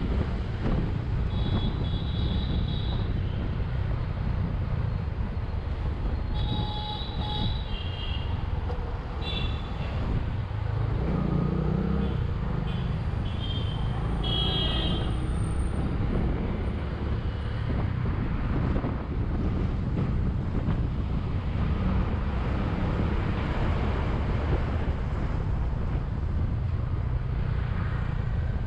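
Bajaj Vikrant V15 motorcycle's single-cylinder engine running at road speed, with wind rushing over the microphone. Short horn beeps sound several times in the first half.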